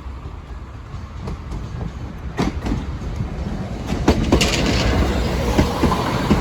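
Diesel passenger train passing over the level crossing, its rumble growing louder about halfway through, with the clickety-clack of wheels over rail joints.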